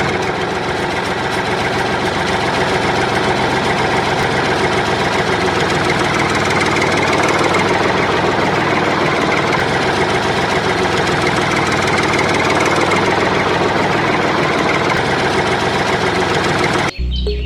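A small motor running steadily with a fast, even pulse; it cuts off abruptly near the end.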